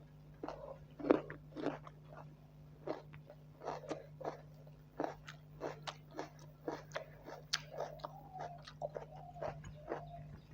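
Close-miked mouth sounds of someone eating buffalo curry with rice: wet chewing and lip smacks, several a second, irregular. A faint wavering tone comes in near the end over a steady low hum.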